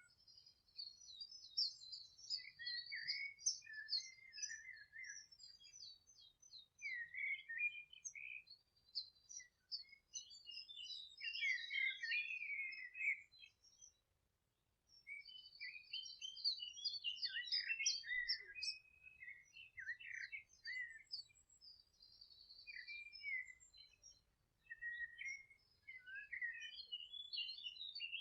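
Several songbirds singing at once, a dense stream of quick chirps, trills and twitters, breaking off briefly about halfway through before carrying on.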